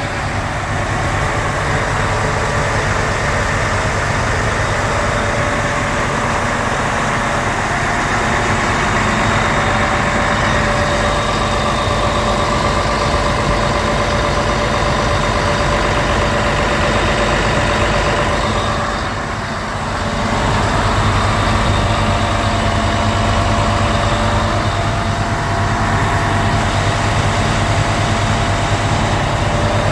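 Cummins L10 inline-six diesel engine in a truck running steadily, with a brief dip in level about two-thirds of the way through before it picks back up.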